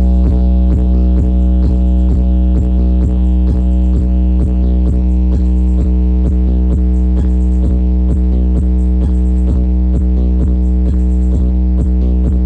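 Electronic music with a heavy, sustained deep bass and a steady fast beat, played loud through a DB SOUND car audio system.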